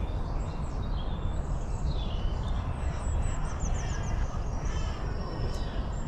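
Birds calling faintly, a few high chirps and a quick run of short high notes about halfway through, over a steady low rumble.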